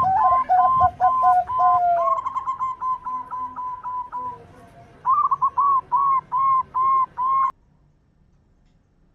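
Zebra dove (perkutut) cooing: strings of short, clear, whistle-like notes. For the first two seconds a second, lower series of notes overlaps them, then comes a quicker run, then a louder series of notes. The song cuts off sharply about two-thirds of the way through.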